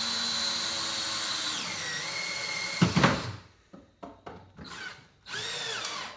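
Power drill driving a screw with a washer into plywood to fix a caster wheel. The motor whine drops in pitch as the screw tightens, there is a loud knock about three seconds in, then a few short bursts and another brief run near the end. The screw is driven down hard enough to fold its washer in on itself.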